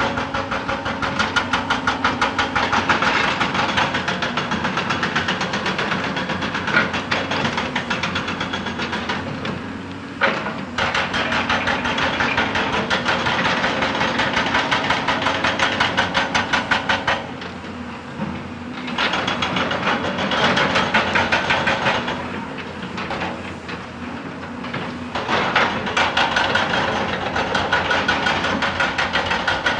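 Excavator-mounted hydraulic rock breaker hammering rapidly against rock, with the excavator's engine running underneath. The hammering eases off briefly twice in the second half.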